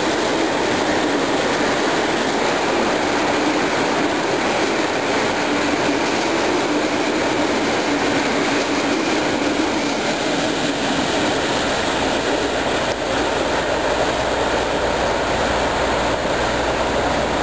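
Steady rumble and rush of a freight train's Zan-V tank wagons rolling past at close range, steel wheels running on rail.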